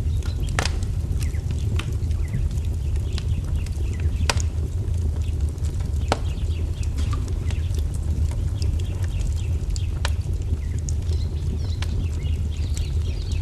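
Wood fire crackling over a steady low rumble, with a few sharp pops, about four in all. Small birds chirp faintly, more often near the end.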